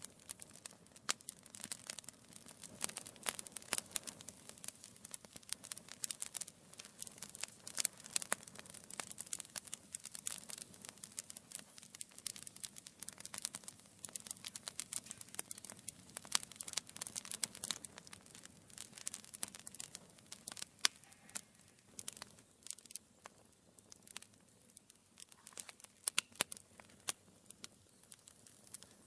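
Wood fire crackling in a fireplace: dense, irregular pops and snaps over a soft low rush of flame, growing a little sparser in the last several seconds.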